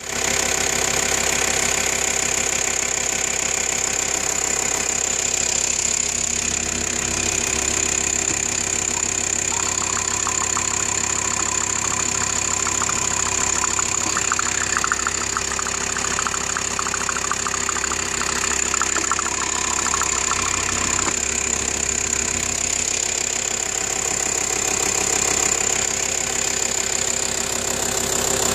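Volkswagen Touareg 2.5 TDI's BAC five-cylinder diesel running steadily, just after the block was re-sleeved with new cylinder liners.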